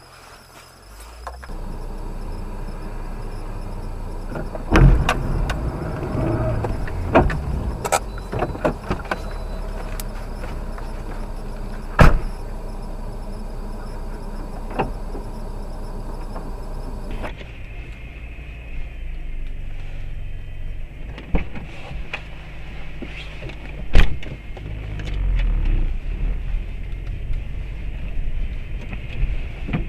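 Car on the road heard through a dashcam: steady low engine and road rumble, broken by a few sharp, loud knocks.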